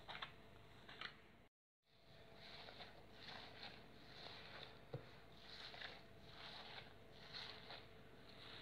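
Faint, soft squishing strokes of hands kneading and rubbing a lump of clotted cream, repeating irregularly about once a second, as the cream is worked into butter and starts giving up its buttermilk.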